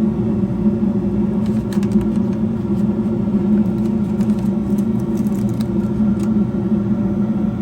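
American Standard gas furnace running on LP during a combustion test, with a steady hum from the burners and inducer motor. A few faint light clicks and taps sound in the middle.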